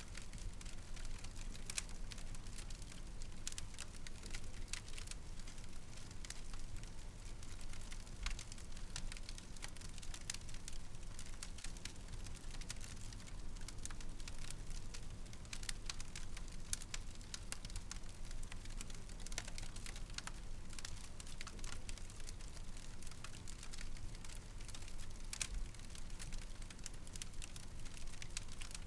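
Wood fire crackling: frequent irregular sharp snaps and pops over a low steady rumble of burning.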